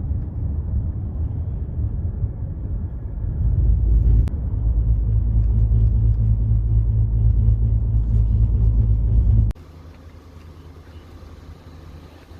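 Low, steady rumble that grows louder about three and a half seconds in and cuts off abruptly near nine and a half seconds, leaving a much fainter hum.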